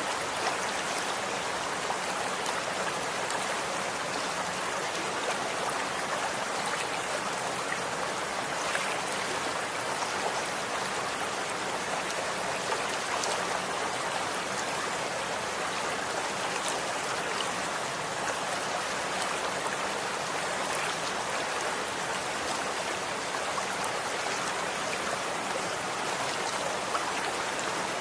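Running water flowing steadily, an even rushing splash with many small droplet ticks throughout.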